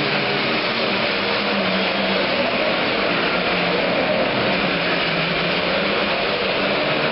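Pro stock pulling tractor's turbocharged diesel engine running hard at high revs, a steady, loud, dense roar with a faintly wavering pitch.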